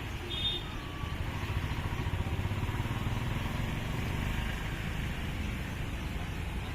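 Motorcycle engine running steadily, with a short high-pitched tone about half a second in.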